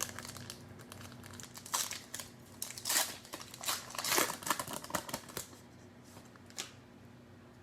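Plastic wrapper of a trading-card pack crinkling and tearing as it is opened by hand, in irregular bursts, dying away after about five and a half seconds apart from one last crackle.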